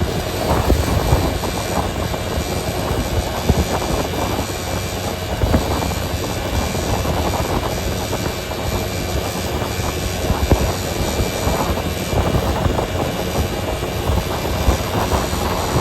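Steady road noise of a moving vehicle: a continuous low rumble under an even hiss.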